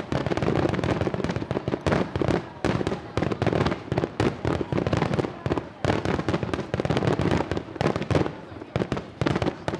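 Fireworks barrage: a dense, continuous run of shell bursts and crackling reports, many bangs a second with no letup.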